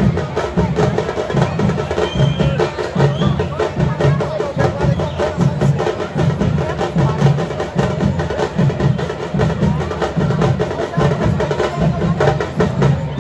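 Football supporters' drum section (bateria) playing a fast samba-style beat: bass drums keep a steady low pulse under rapid snare strokes, with voices mixed in.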